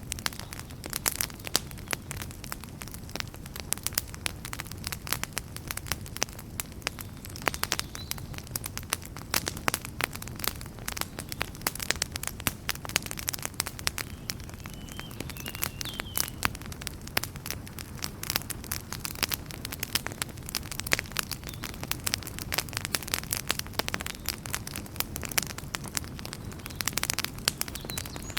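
Wood campfire crackling, with frequent irregular sharp pops and snaps over a steady low noise of burning.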